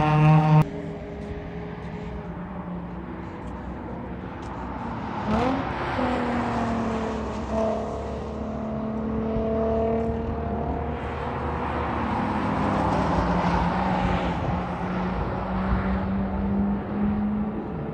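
Sports car engines on a race track. A loud engine note falling in pitch cuts off abruptly about half a second in, then quieter engine tones run on, rising and falling, with a quick rise in revs about five seconds in.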